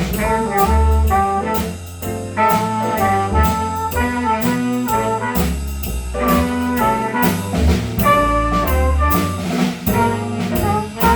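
Jazz band with a horn section playing punchy ensemble chords over bass and drums in a swinging rhythm.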